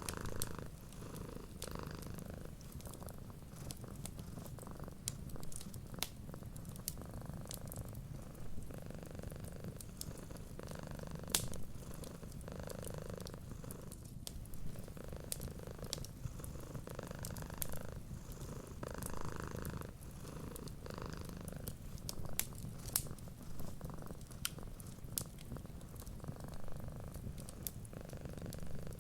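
Cat purring steadily, with scattered sharp crackles and pops from a wood fire.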